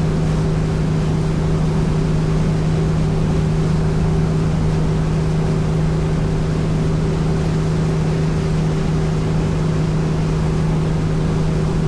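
Motorboat engine running at a steady cruising speed, a constant unchanging hum, with the rush of wind and water over the hull as the boat runs.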